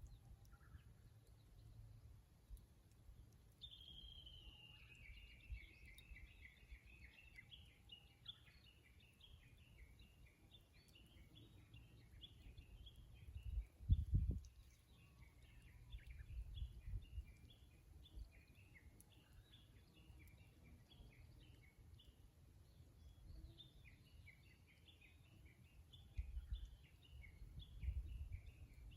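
A Japanese bush warbler (uguisu) calling faintly. About 3.5 s in it gives a single descending note, followed by long runs of rapid repeated notes, pausing in the middle and starting again near the end. Low rumbling noise runs underneath, with a sharp low thump about halfway through that is the loudest sound.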